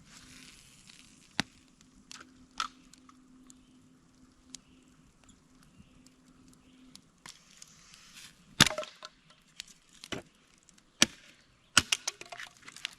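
Campfire wood crackling and popping in scattered sharp cracks, louder and closer together in the second half.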